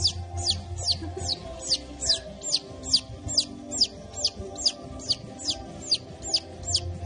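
A short high chirp that sweeps down in pitch, repeated very evenly about two and a half times a second, over faint background music.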